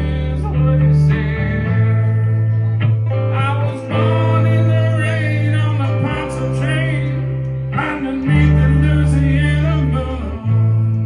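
Live band playing an instrumental passage of a country-blues song: steady bass notes change every couple of seconds under a lead line with sliding, bending notes.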